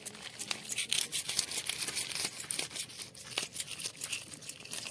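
Quick, dry scraping and crackling from food preparation: many short, scratchy strokes in close succession.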